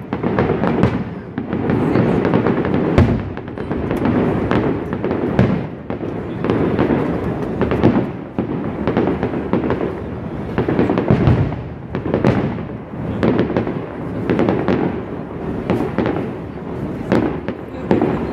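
Fireworks display going off in quick succession: many sharp bangs and crackles overlapping on a continuous rumble.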